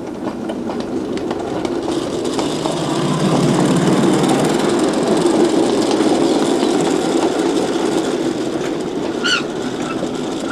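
Small 5-inch-gauge ride-on switching locomotive rolling along its backyard track, wheels clicking over the rail joints. The running noise grows louder over the first few seconds, then holds steady.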